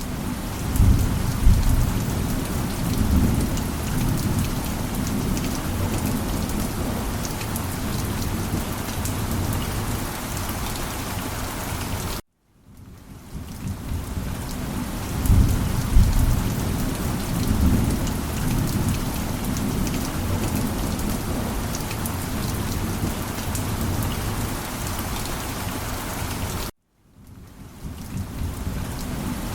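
Heavy rain falling steadily with low rolls of thunder swelling and fading. Twice the sound cuts off abruptly to a moment of silence and then fades back in.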